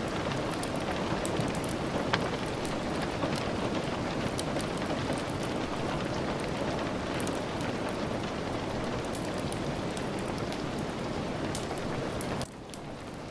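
Steady rain falling, with scattered sharp ticks throughout. The sound drops suddenly in level near the end.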